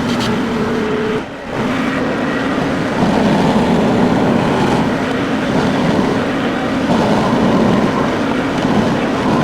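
A tractor engine running steadily. It drops briefly about a second in, then runs louder from about three seconds in.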